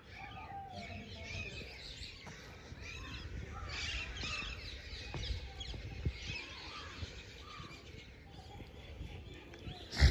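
Several small birds chirping and calling over one another, many short chirps throughout, over a low rumble, with one sharp knock near the end that is the loudest sound.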